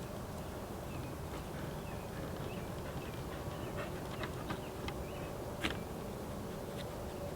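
Steady outdoor background hum with a faint steady drone, broken by a scattered run of light clicks and taps, the sharpest a little past the middle: the small handling noises of repotting plants.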